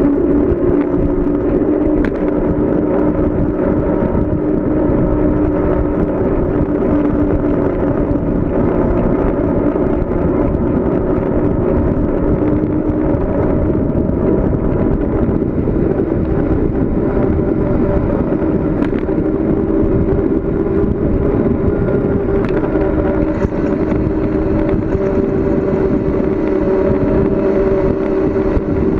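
Steady, loud rush of wind and road noise on a bicycle-mounted or rider's camera microphone during a fast downhill coast, with a steady hum running through it.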